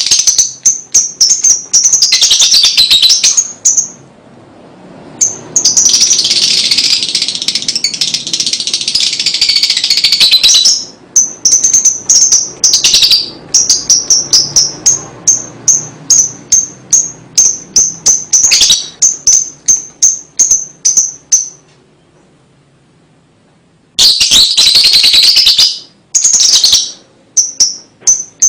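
Lovebird ngekek: long runs of harsh, dense chatter alternating with strings of quick high-pitched chirps repeated a couple of times a second, broken by two short pauses.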